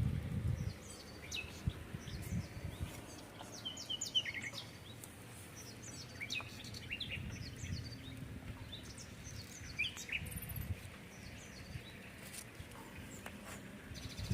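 Small birds chirping with many short, high calls scattered throughout, over a low background rumble that is loudest at the very start.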